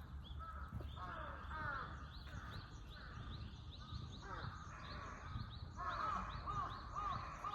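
Outdoor animal calls: several overlapping short, arched calls repeating throughout, turning into a regular series of about two calls a second near the end.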